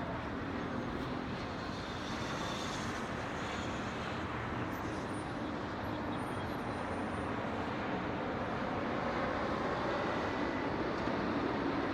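Distant city traffic: a steady wash of road noise with a low engine hum, growing slightly louder toward the end.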